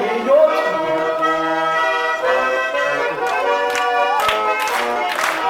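Garmon (Russian button accordion) playing an instrumental melody in sustained chords after the song's last verse. From about four seconds in, a rhythmic sharp beat joins it.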